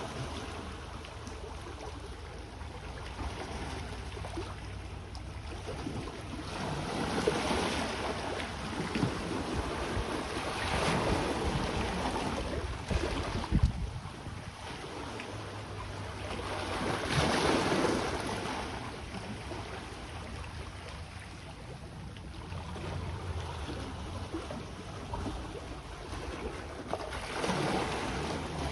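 Small ocean waves washing onto the shore, surging up several times with a steady low rumble underneath. A single sharp thump a little before halfway.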